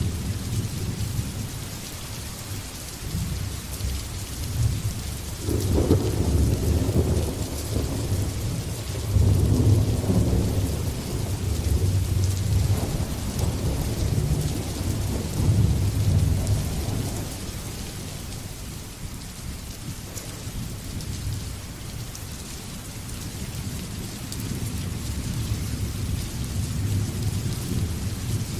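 Steady heavy rain with thunder rumbling. The thunder swells about five seconds in, rolls on loudest for the next several seconds and dies away after about seventeen seconds, leaving the rain and a faint low rumble.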